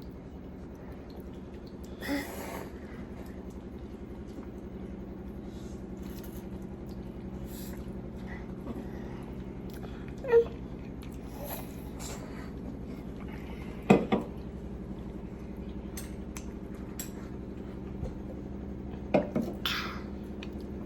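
Eating ramen at a table: spoons and cups clinking with a few short louder clinks or slurps, over a steady low hum.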